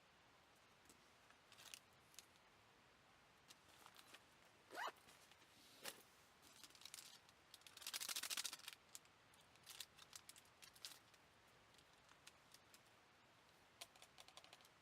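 Faint, sparse clicks and small handling noises, with a quick rising squeak about five seconds in and a short rasping burst about eight seconds in.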